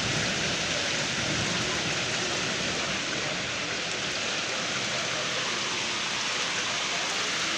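Heavy rain pouring down steadily in a severe thunderstorm, a dense, even hiss with no breaks.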